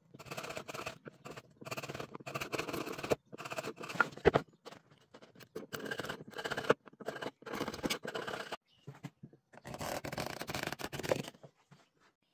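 Hand tool scraping on wood in a series of about six strokes, each about a second long, with short pauses between them.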